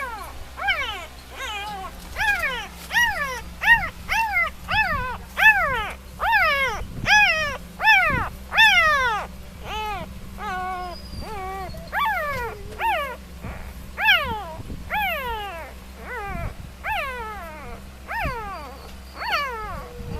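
Three-day-old puppies crying: a rapid string of short, high-pitched squeals, each sliding down in pitch, about two a second.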